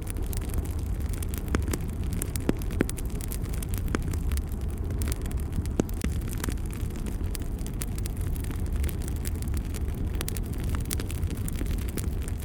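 Fire burning in a fireplace: frequent sharp crackles and pops over a steady low rumble.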